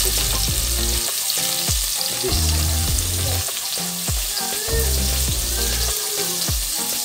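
Sliced peppers frying in oil in a pot, sizzling steadily, under background music with a bass line and a regular beat.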